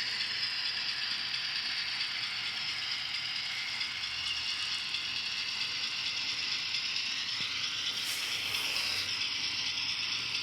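Steady diesel switcher engine sound from an N scale SW7's DCC sound decoder, played through the locomotive's tiny speaker, which makes it thin and high, mixed with the clatter of its small motor and gears as it creeps along at a low speed step. About eight seconds in, a brief brighter hiss-like sound cuts in.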